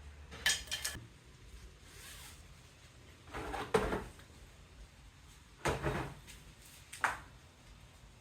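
Four short knocks and clunks a second or two apart, like objects being handled and set down.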